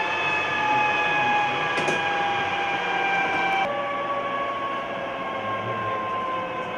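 Jet engine turbine whine, a stack of steady tones slowly falling in pitch. About a third of the way through it changes abruptly to a lower whine that keeps gliding slowly down.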